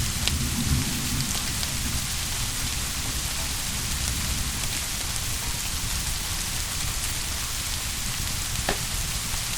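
Steady rain falling, an even hiss with no change in strength, with a couple of faint clicks.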